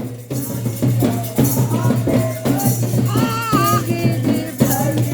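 Candomblé ceremonial music: percussion strokes and rattles with voices singing.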